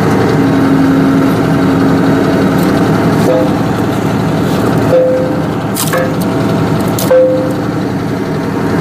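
Tractor engine running steadily, powering a hydraulic log splitter. From about three seconds in come several sharp cracks with short squeaks as a knotty log gives way under the wedge, the loudest near the middle and near the end.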